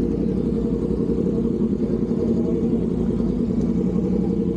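Aprilia RSV4 1100 Factory's V4 engine idling steadily.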